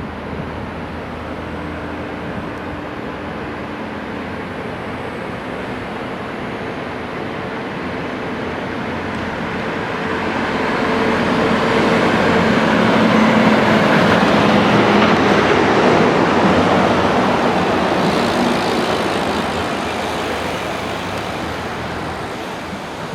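Road traffic: a passing vehicle's engine and tyre noise swells to a peak about halfway through, then fades away.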